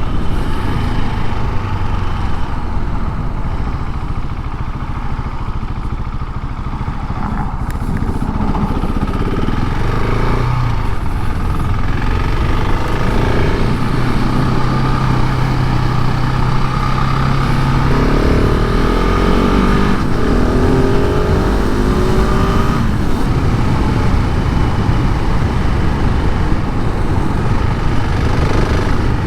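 KTM 690 SMC R's single-cylinder engine running through its stock exhaust while riding. The note holds steady for a while, then climbs in pitch about two-thirds of the way in as the bike accelerates.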